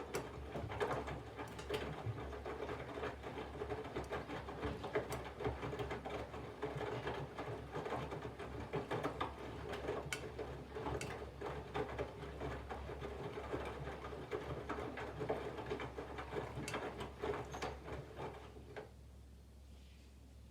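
Candy GVF4 front-loading washing machine in its main wash: the drum turns and tumbles wet laundry over a steady motor hum, with frequent light knocks. The drum stops about nineteen seconds in, the pause before it turns the other way.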